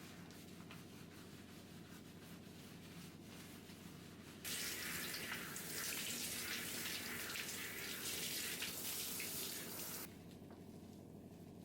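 Water running steadily from a tap, turned on about four and a half seconds in and shut off about ten seconds in.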